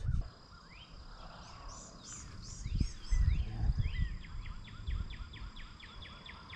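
Birds calling: a few high chirps, then a fast run of short repeated notes, about six a second, through the second half. A low rumble on the microphone is loudest about three seconds in.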